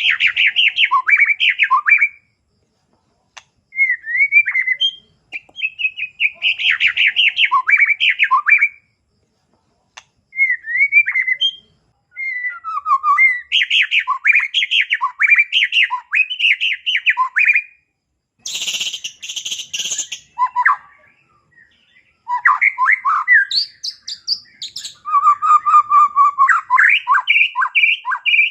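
White-rumped shama singing a varied song in rapid phrases of chirps and trills, each a few seconds long with short pauses between. About two-thirds of the way in, a harsh rasping burst breaks in. This is the bird running through its repertoire of imitated calls.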